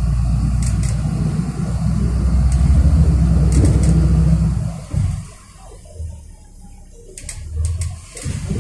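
City bus engine and drivetrain heard from inside the cabin while driving. The low rumble eases off about five seconds in, as the bus slows, and builds again near the end as it pulls away. A few light rattles come through.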